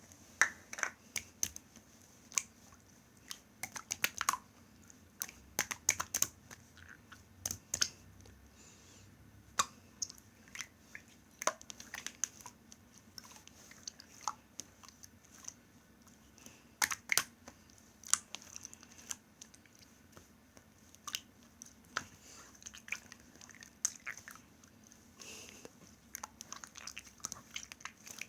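Homemade slime being squeezed and pressed by hand, giving irregular sharp clicks and pops.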